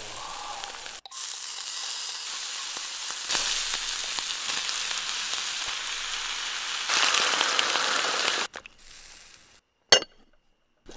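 Food sizzling on a hot pan or grill: a steady frying hiss that jumps in level several times, then fades away, with a single sharp click just before it goes silent.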